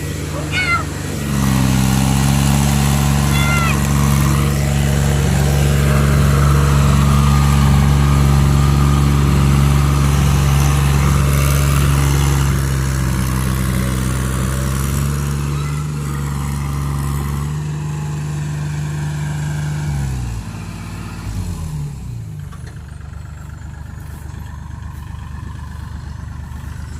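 Heavy diesel engine of a combine harvester pulling a tractor stuck in mud, running hard at steady high revs under load. The pitch wavers and drops away about 18 to 21 seconds in, leaving the engine running more quietly.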